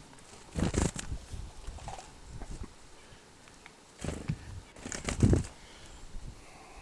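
Feeder birds' wings fluttering close by in two short bouts, about a second in and again around four to five seconds in, with a few light taps between them.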